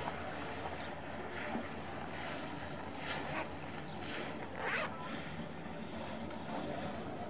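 A boat's engine running low and steady, with several short rasping scrapes over it; the loudest comes about four and a half seconds in.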